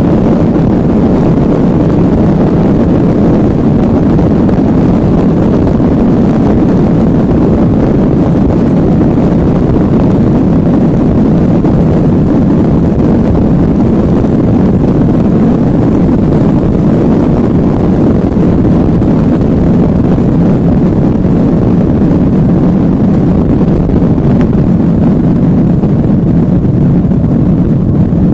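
Boeing 737 jet engine running: a loud, steady low rumble.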